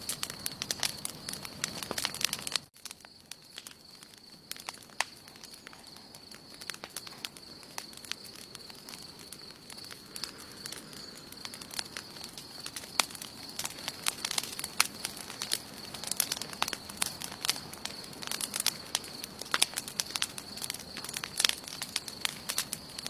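Wood campfire crackling, with irregular sharp snaps and pops over a steady high-pitched whine. The sound drops abruptly about three seconds in, then the crackling carries on.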